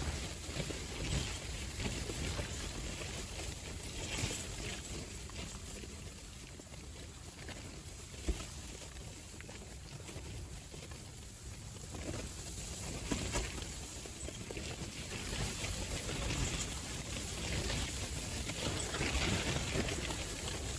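Strong gusty wind buffeting the microphone, a low rumble with hiss on top that eases off for a few seconds in the middle and picks up again, with a few short clicks.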